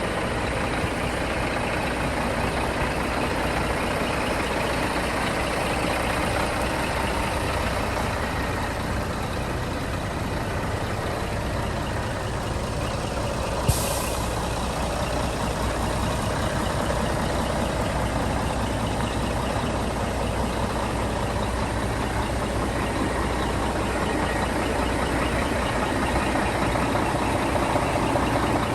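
Scania R480 truck's six-cylinder diesel engine running steadily, with one sharp click about halfway through.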